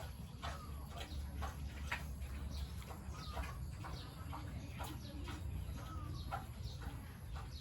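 Birds chirping: many short high calls, some sliding down in pitch, several a second, over a steady low rumble.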